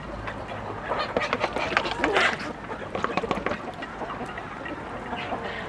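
Poultry calling: a busy run of short, harsh calls, loudest in the middle.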